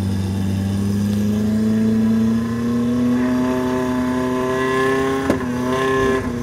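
Off-road 4x4 engine held at high revs under heavy load, its note rising slowly in pitch. A single sharp knock about five seconds in.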